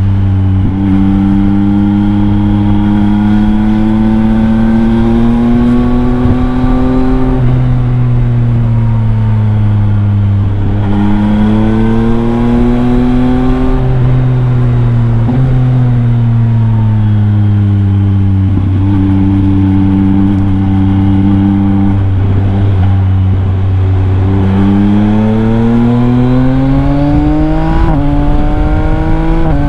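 Yamaha MT-09 three-cylinder engine running through a Leovince LV Race exhaust with the dB killer removed. The revs rise and fall, with sudden drops about seven and fourteen seconds in, a steadier stretch in the middle, and a long climb near the end.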